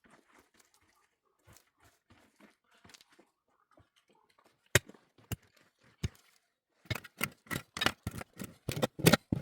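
Faint scattered clicks and rustles, then sharp knocks about five seconds in, and a quick run of knocks, about four or five a second, over the last couple of seconds, with the loudest knocks near the end.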